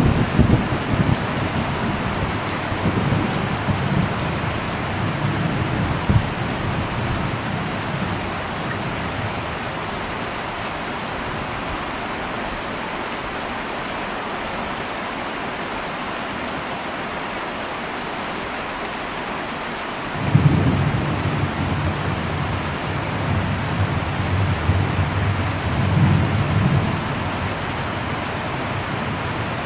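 Heavy rain drumming steadily on an old metal roof, with thunder. A rumble at the start dies away over several seconds, and about two-thirds of the way through a new thunderclap breaks in suddenly and keeps rolling to the end.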